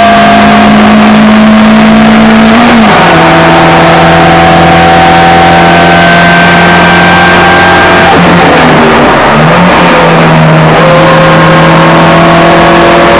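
Ford Escort Mk1 1300GT's 1.3-litre four-cylinder engine at racing speed, loud and close. About three seconds in, the pitch drops sharply on an upshift and then climbs slowly as the car pulls. Around eight to ten seconds in, the note wavers and dips briefly, then settles and climbs again.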